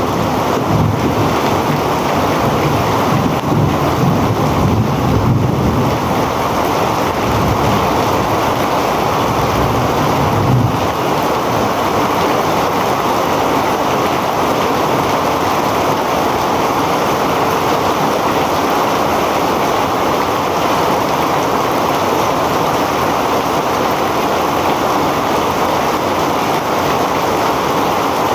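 Heavy rain pouring down in a dense steady hiss, with wind gusting on the microphone in low rumbles for the first ten seconds or so.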